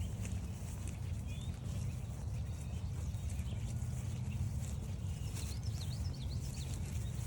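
A small songbird chirping in a quick run of short notes about five seconds in, with a fainter chirp earlier, over a steady low rumble and the soft steps of walking on a trail.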